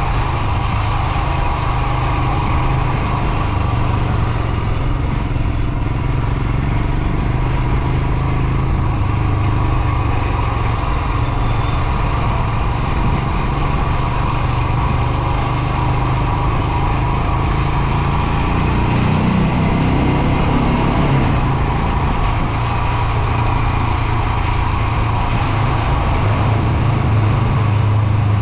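Royal Enfield Himalayan 411's single-cylinder engine running steadily while riding. Its note briefly rises and falls about two-thirds of the way through.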